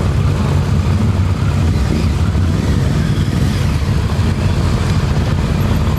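Motorcycle engines running with a steady, loud low rumble.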